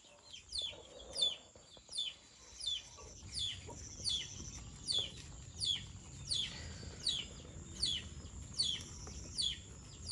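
A bird calling over and over, a short high whistle that falls sharply in pitch, repeated evenly about every three-quarters of a second.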